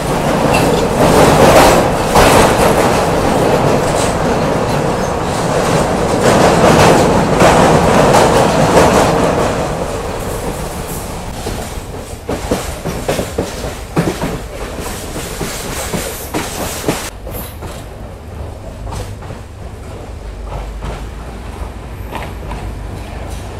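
Passenger train wheels running loudly over the rails of a steel truss bridge, heard from an open carriage doorway. After about ten seconds the noise drops to a quieter clickety-clack, with sharp clicks over rail joints as the train slows toward a station.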